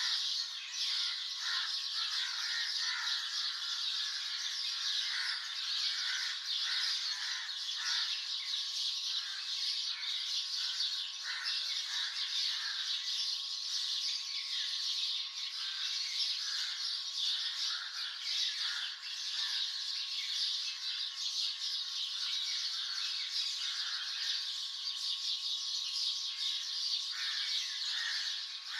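A dense chorus of many birds chirping and calling at once, with no pause, many short calls layered over a constant high twittering. A faint steady tone runs underneath.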